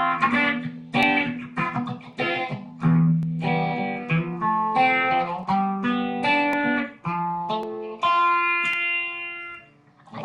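A plucked string instrument playing an instrumental passage of separate notes and chords, ending on a chord that rings for about two seconds and fades out.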